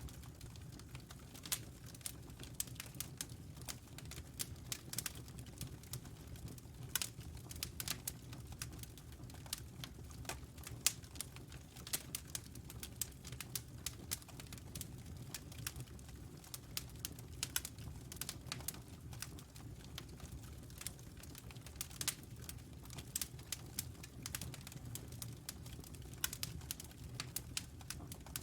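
Wood fire crackling in a fireplace: irregular sharp crackles and pops, several a second, over a low steady rumble of the flames.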